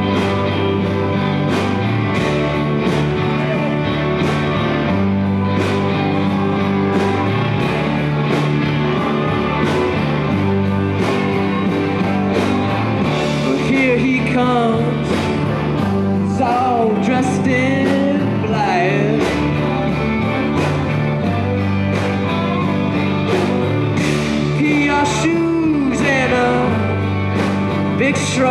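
Live rock band playing a driving, steady beat on drums, bass, guitars and organ, with a bending lead line over it in the second half.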